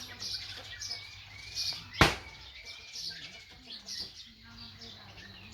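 Short high-pitched chirps repeating about twice a second, with one sharp loud knock about two seconds in.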